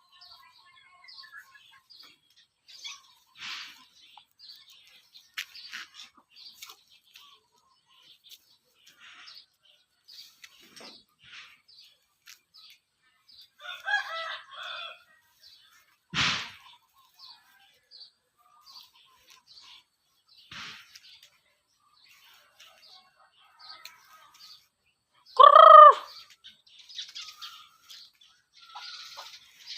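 Chickens being fed: scattered short taps and clicks with occasional clucks, a sharp knock about midway, and one loud, short call near the end.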